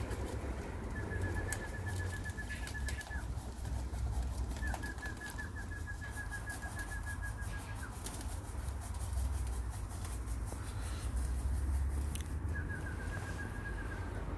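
Pigeons' wings flapping as birds take off, over a low wind rumble on the microphone, with a bird's rapid high trill of evenly spaced notes at one pitch three times, each lasting two to three seconds.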